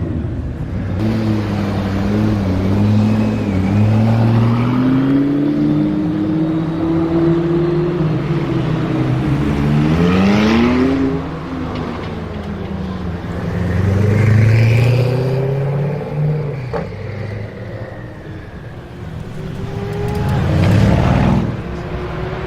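Koenigsegg Agera RS twin-turbo V8 running through its exhaust, its pitch rising and falling as it is revved or driven. It gets louder in surges about halfway through, about two-thirds through and near the end.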